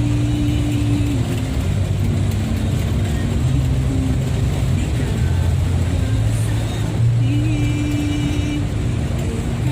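Road traffic in heavy rain: the steady rush of downpour mixed with the low hum of vehicle engines, one of which rises in pitch about seven seconds in.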